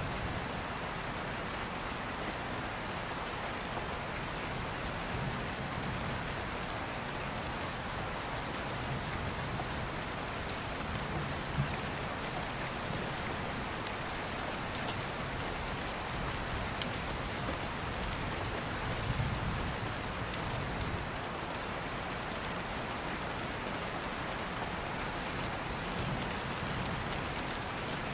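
Steady rain, with slow low rumbling swells of distant thunder and a few sharp crackles.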